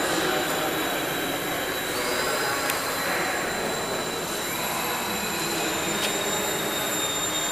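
High-pitched whine of small electric RC aircraft motors and propellers flying indoors, steady and continuous. Another tone slides in and joins it around two seconds and again around five seconds in.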